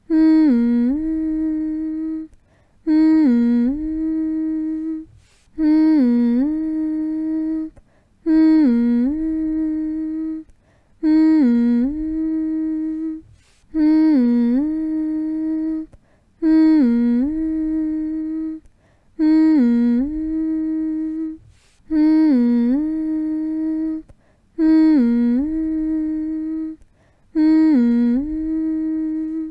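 A voice humming the same short phrase over and over as a lullaby, about once every two and a half to three seconds. Each hum starts with a quick dip in pitch, then holds one steady note, with a brief pause between hums.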